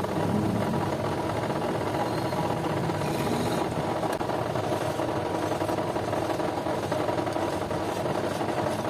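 An electric workshop machine starts up and then runs steadily with a continuous mechanical hum and vibration.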